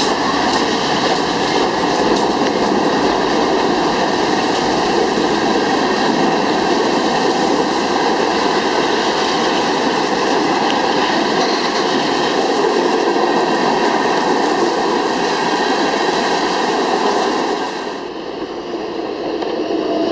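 Empty freight train of coal gondolas rolling past at speed: a steady loud rumble of steel wheels on rail and rattling empty cars, with a few sharp clacks near the start. About 18 seconds in, the sound suddenly turns duller and quieter.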